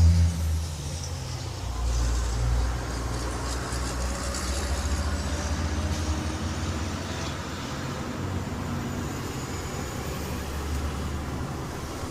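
Kia Sorento's V6 engine idling steadily, a little louder for the first moment and briefly swelling about two seconds in.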